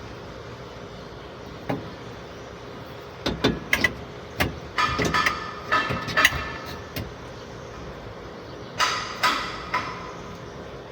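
Metal clanks and knocks of tools and parts being handled during truck brake work, in irregular clusters with a short ring after each, over a steady background hum.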